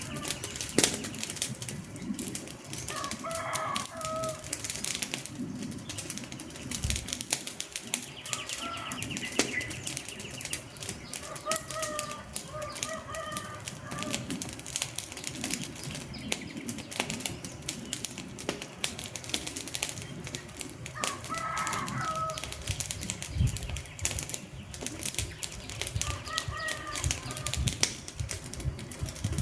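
Wood fire crackling and popping, a dense run of sharp snaps. Short pitched calls cut in briefly several times over it.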